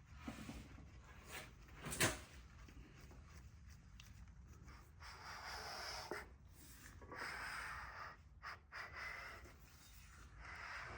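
Faint workshop handling noises: one sharp click or tap about two seconds in, then several stretches of rustling.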